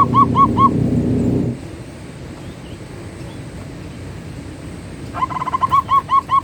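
Zebra dove cooing. A run of short, arched coo notes, about four a second, ends within the first second. After a pause of several seconds a new run starts about five seconds in with a quick stutter of notes and settles into evenly spaced coos. A low steady hum underneath stops about a second and a half in.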